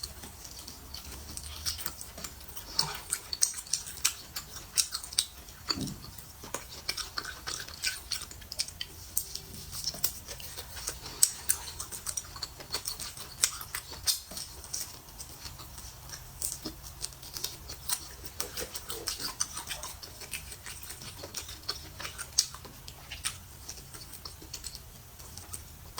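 Close-up eating sounds of a person chewing braised pork on the bone: irregular quick mouth clicks and smacks, several a second.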